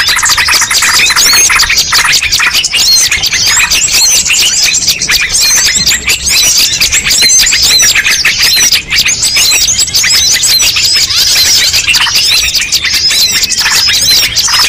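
A loud, dense chorus of many small birds chirping and twittering at once, with no pauses: a mixed-species bird-lure call recording.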